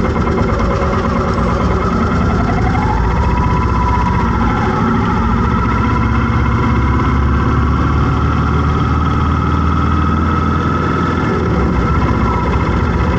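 Road traffic in a jam: vehicle engines running and idling as a steady low rumble, with a higher whine that rises about three seconds in and wavers.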